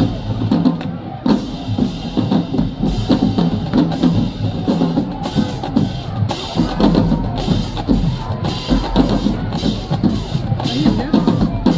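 Marching band playing, driven by bass drums and snares, with frequent cymbal crashes.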